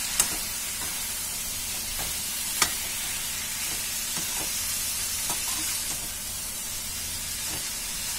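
Raw mango pieces and onion masala sizzling in oil in a kadai while a spatula stirs them, mixing in the turmeric. A steady frying hiss runs under the stirring, and the spatula strikes the pan sharply twice, once near the start and again a couple of seconds later, with lighter scrapes and taps after.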